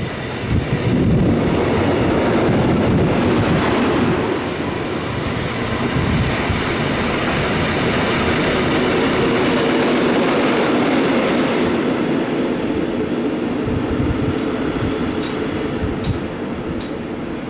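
A train running past, a steady rumble of wheels and cars, with a few sharp clicks near the end.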